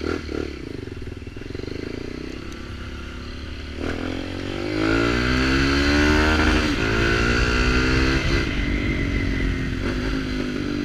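Small Kawasaki Ninja motorcycle with a sport exhaust, pipe only, accelerating: the engine note climbs from about four seconds in, dropping briefly twice as it shifts up and then climbing again.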